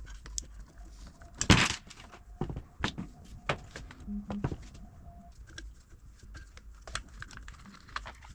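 Scattered clicks and knocks of an Allen key, screws and the brushcutter's plastic engine cover being handled during disassembly, with one louder knock about a second and a half in.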